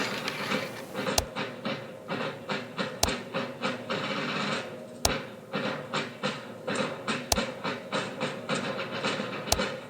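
Steel ramrods dropped down black powder musket barrels, each striking the bottom with a sharp metallic ping, about every two seconds; the ping shows the bore is clear down to the breech. Lighter clicks and rattles of metal run between the strikes.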